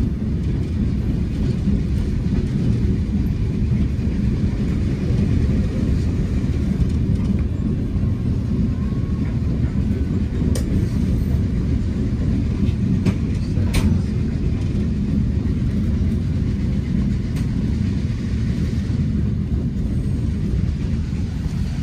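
Passenger train running along the line, heard from inside the carriage: a steady low rumble of wheels on track, with a couple of sharp clicks about ten and fourteen seconds in.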